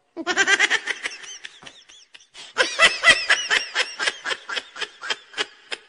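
Laughter: a long run of quick giggling bursts, thinning out about two seconds in and then picking up again, thick and rapid, until near the end.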